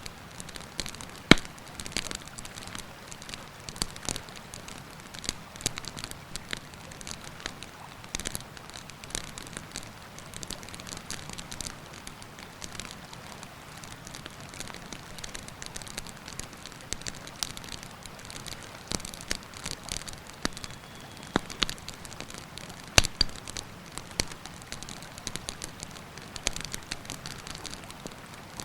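Wood campfire crackling, with irregular sharp pops. The loudest come about a second in and again about 23 seconds in. Beneath them runs a steady rushing of the river.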